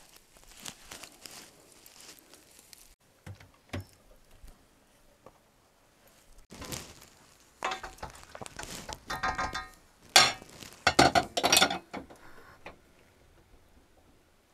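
Dishes and metal utensils clinking and knocking in a few separate bouts of handling, some with a brief ringing tone, the loudest clatter about ten to twelve seconds in.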